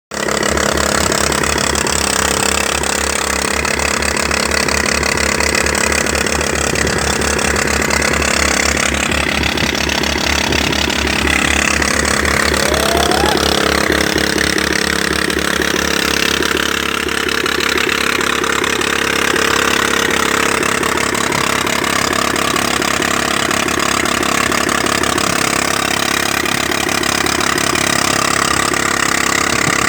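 Engine-driven rice threshing machine running steadily: an even, rapid engine beat under a continuous rushing noise.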